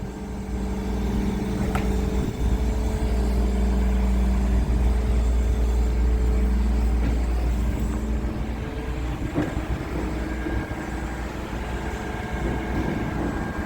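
Mobile crane's diesel engine running steadily under load while holding a building in the air, a low drone that eases off slightly about halfway through.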